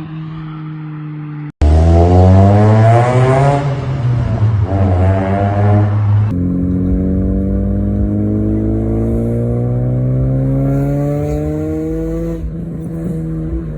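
Honda Civic EP2 four-cylinder engine and exhaust in a run of short clips. First a steady idle, then about two seconds in a loud rev that climbs fast and drops back. From about six seconds the engine pitch climbs slowly and steadily for several seconds as the car accelerates under load.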